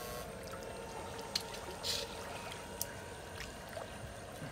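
Shallow water trickling and running, with a short splash about two seconds in and a couple of light clicks. A faint steady hum sits underneath.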